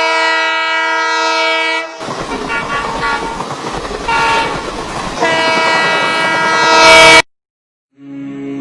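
Train horn sounding a long blast, then the noise of the train running past with short horn notes, then a second long horn blast that grows louder and cuts off suddenly. Music starts near the end.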